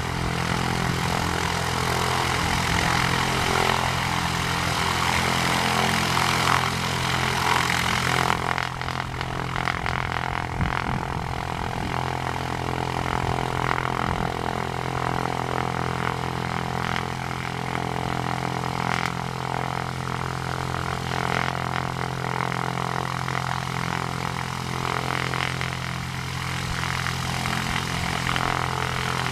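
A Cessna 172's single propeller engine running steadily at low power on the ground, with an even, unchanging pitch.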